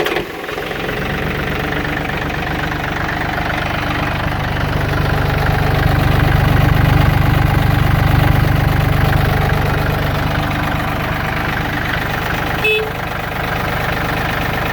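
Yanmar F265D compact tractor's three-cylinder diesel engine catching and then running steadily at idle. It grows louder for a few seconds midway, then settles back. A short beep sounds near the end.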